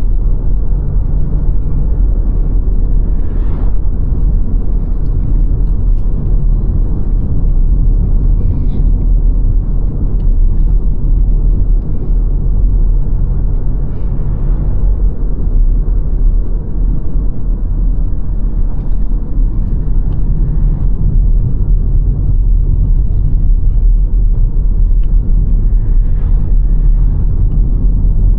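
Steady low rumble of a car driving on the road: tyre and engine noise, with a few faint brief knocks.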